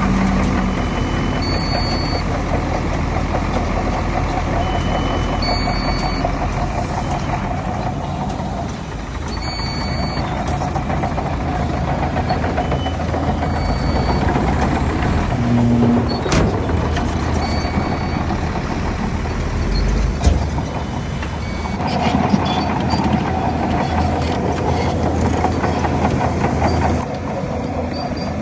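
Heavy diesel earthmoving machinery, a bulldozer working alongside dump trucks, running under load throughout. Short high reversing-alarm beeps sound every few seconds, and there are a few sharp metallic clanks, two of them close together about two-thirds of the way in.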